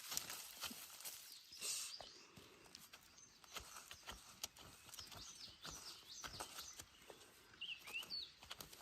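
Faint scattered ticks and crackles of bamboo shoots and plant litter being handled and snapped, with a few short bird chirps near the end.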